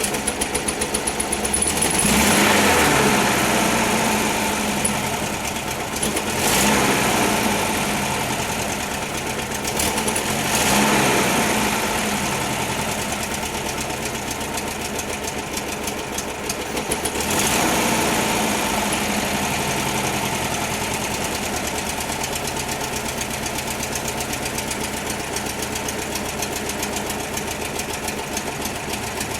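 1968 VW Type 3's air-cooled flat-four engine, just cold-started without chokes, running and revved up four times, each time settling back to a lumpy idle, then running steadily.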